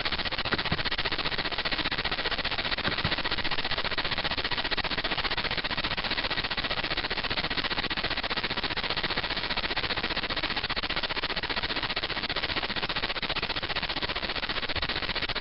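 Steady static on a teleconference phone line: an even hiss with fine rapid crackle and a faint steady high whine.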